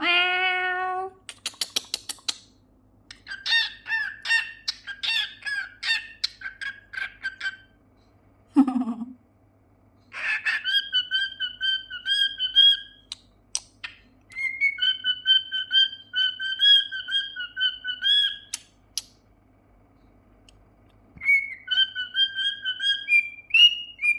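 Cockatiel singing: whistled, warbling phrases broken by bursts of rapid chattering notes, with short pauses between phrases.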